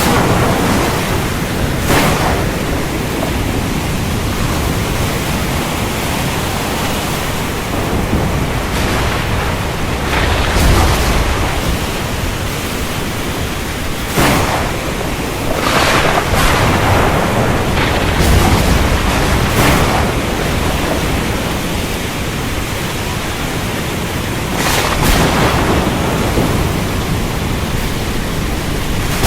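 Thunderstorm: a steady hiss of rain under low rolling thunder, with sudden sharp thunder cracks every few seconds, the loudest near the middle.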